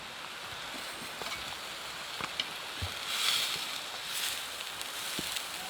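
Steady rain falling, with scattered drip ticks and a brief louder rush of hissing noise about three seconds in.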